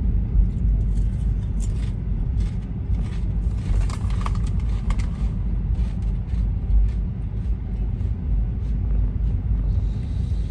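Road noise inside a moving car's cabin: a steady low rumble of tyres and engine, with scattered light clicks and knocks in the first half.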